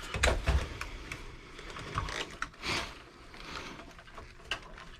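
Clicks, rattles and light knocks of parts being worked loose and pulled out of an old desktop computer, with a short scraping slide near the middle.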